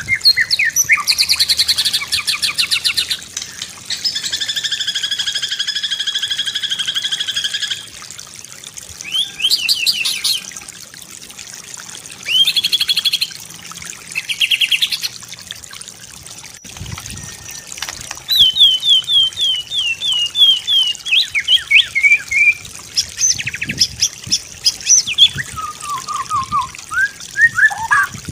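White-rumped shama (murai batu) singing a varied full song in separate phrases: fast chattering trills, long clear whistled notes, short rapid bursts, and a run of quick falling notes, with brief pauses between phrases.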